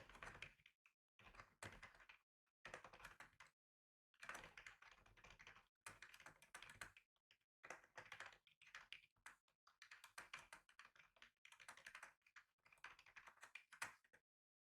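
Typing on a computer keyboard, quiet, in runs of rapid key clicks broken by short pauses.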